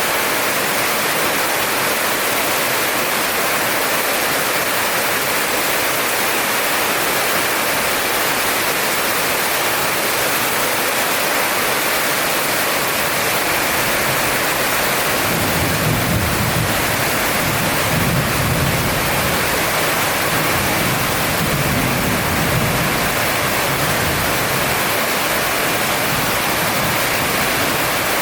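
Heavy rain pouring steadily, with a low rumble of thunder rolling in about halfway through and lasting several seconds.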